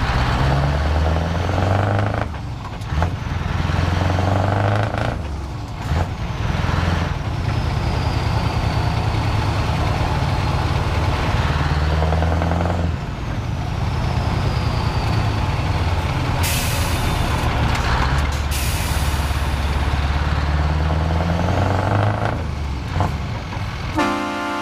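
Scania R 560's V8 diesel engine pulling away under load, its pitch climbing and dropping several times as it shifts up through the gears. Two loud hisses of released air come about two-thirds of the way through, and a short horn blast sounds at the very end.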